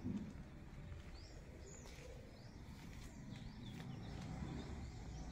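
Faint outdoor background with small birds giving short, rising chirps, several times over a few seconds.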